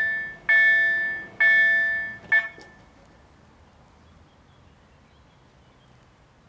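KLD-4103 electronic slow-ringing level-crossing bell striking about once a second, each stroke ringing out and fading. It sounds three full strokes, then a last stroke cut short about two and a half seconds in, and the bell stops.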